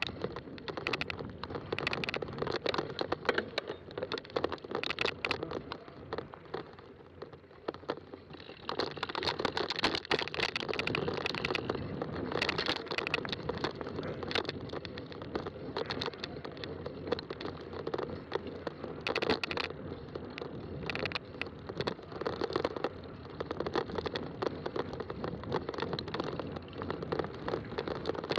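Fat-tire bicycle being ridden along a trail: a steady rolling tyre noise with many sharp clicks and crackles from the ground and the bike, growing louder about a third of the way in.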